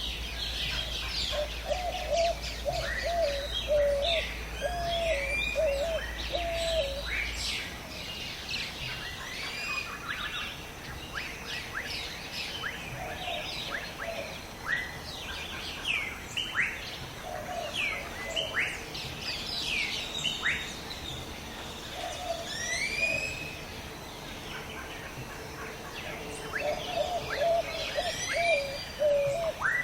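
A dawn-chorus-like mix of many birds chirping and calling, dense, overlapping and high-pitched, with runs of a lower, evenly repeated call that comes and goes several times.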